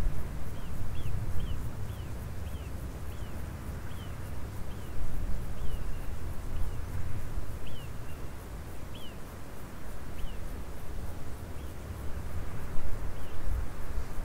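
A bird calling in short, high, downward-sliding chirps, one or two a second, thinning out after about ten seconds, over a low rumbling background noise.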